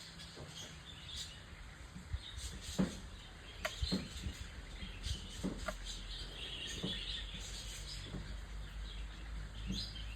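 Small birds chirping repeatedly in short calls, a few of them quick falling notes, over a steady low rumble.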